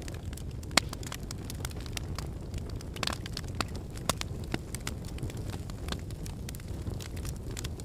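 Wood fire burning in a fireplace: a steady low rumble of flames with frequent irregular crackles and sharp pops from the burning logs, the loudest pop a little under a second in.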